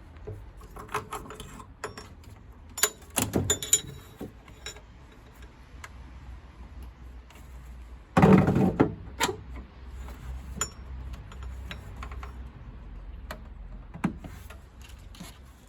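Clicks, rattles and clanks of metal boiler parts being handled during dismantling, some with a brief metallic ring, and one heavy thump about eight seconds in.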